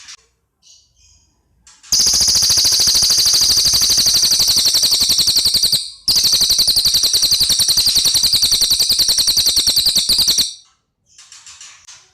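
Songbird singing a 'tembakan rapat' rapid-fire passage: two long, loud trills of very fast repeated high notes, each about four seconds, split by a brief break, with softer scattered chirps before and after.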